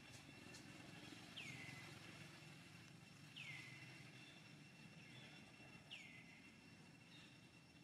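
Faint bird calls: four short whistles, each dropping in pitch, repeated about every two seconds over a thin steady high tone.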